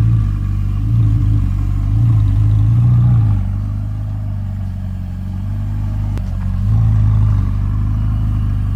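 Ferrari 488 GTB's twin-turbo V8 running loudly at idle through an aftermarket IPE exhaust on a cold start, a deep steady drone that swells and eases a few times.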